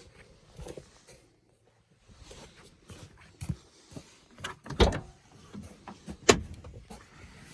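Pickup truck door and cab handling: irregular clunks and knocks, the two loudest a second and a half apart in the second half. The engine is not yet running.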